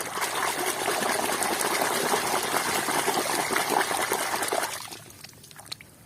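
Water pouring and splashing over muddy toy vehicles, rinsing the mud off; the pour stops a little before five seconds in.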